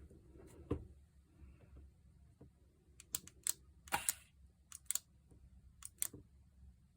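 Sharp clicks and light clinks of small hard parts and hand tools being handled while working on an electric demolition hammer: one click about a second in, then a quick run of them through the middle of the stretch.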